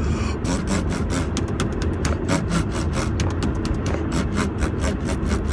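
People imitating a car muffler with rapid, sputtering mouth noises, over the steady low rumble of the car on the road.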